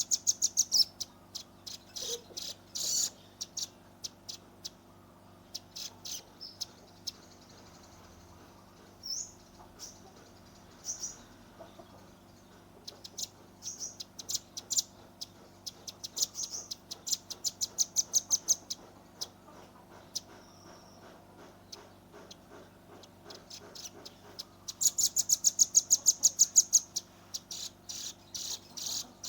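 Velvet-fronted nuthatch giving quick trains of short, sharp high chips in bursts, the rapid 'tembakan' calls of a young bird. The longest and loudest run comes near the end.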